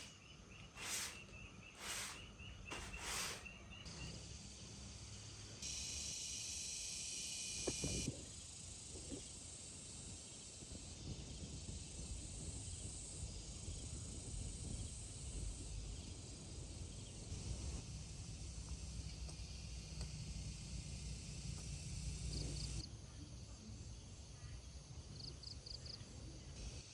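Insects chirping and buzzing at a high pitch over a low, steady background of outdoor noise. The sound changes abruptly several times. In the first few seconds there are about one knock a second and a short pulsed trill.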